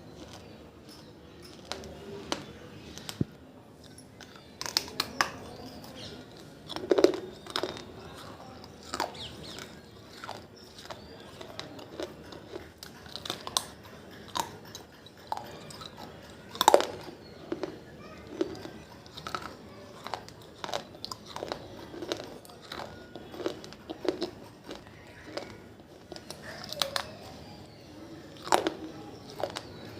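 Water-soaked fired clay diya pieces being crunched: irregular sharp cracks and crunches, a few every second, with two louder cracks, about a quarter and about halfway through.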